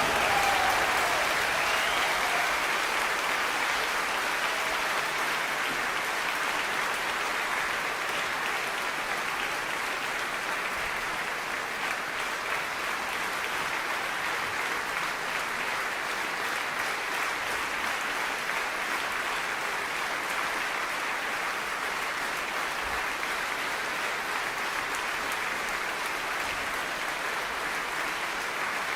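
Audience applauding steadily right after a piece of orchestral music ends.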